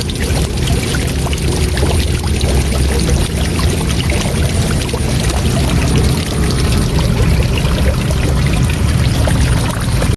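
Waterfall: a steady, loud rush of falling water, deepest in the low end.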